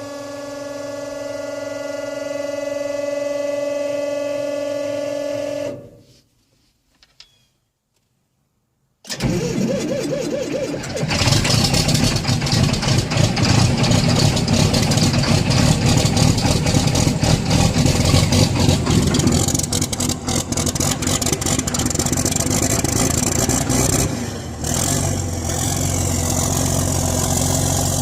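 A John Deere diesel engine cranking over and catching on a cold start about nine seconds in, then running loudly. Before that there is a steady pitched drone that cuts off after about six seconds, followed by a few seconds of near silence.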